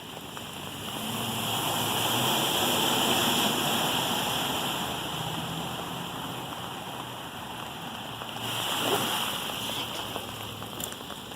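A car's tyres running through standing water over the road: a steady rushing, splashing spray over a low engine hum. It swells over the first few seconds and again near the end.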